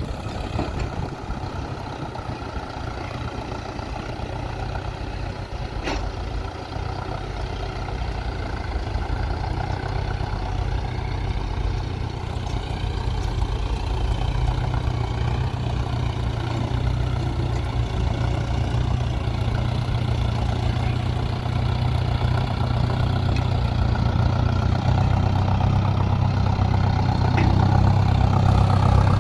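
Heavy diesel engine running steadily, slowly getting louder, with a deep low hum building toward the end.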